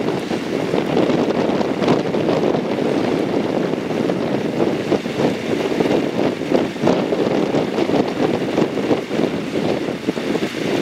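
JR Kyushu 415 series electric train running on the rails: a steady, loud rumble of wheels and running gear with a rapid, irregular clatter.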